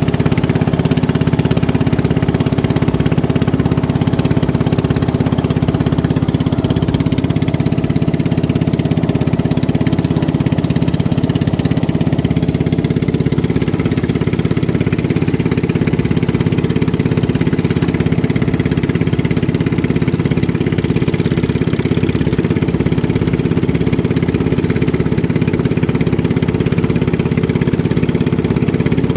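Motorboat engine running steadily, its pitch and loudness holding even with no revving.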